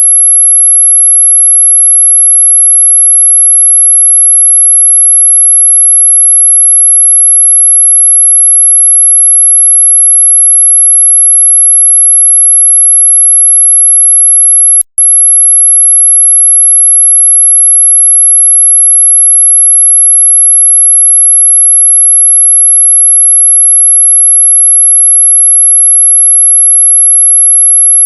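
A synthetic anti-mosquito repellent tone: a single very high-pitched, steady electronic pure tone, played loud. About halfway through it cuts out for an instant with a click, then carries on unchanged.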